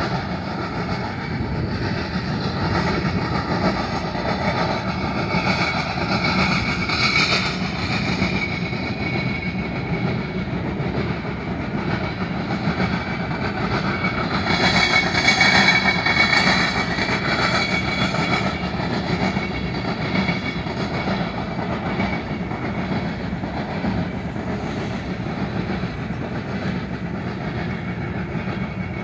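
Covered hopper cars of a freight train rolling past, a steady rumble and rattle of wheels on rail. It grows louder and higher-pitched about halfway through, with some steady high tones.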